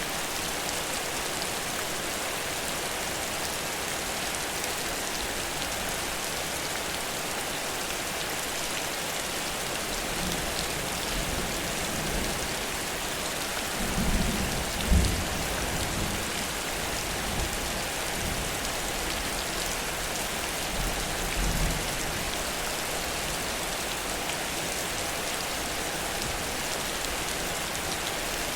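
Heavy rain falling steadily. A low rumble of thunder rises about a third of the way in, is loudest near the middle, and swells once more before fading.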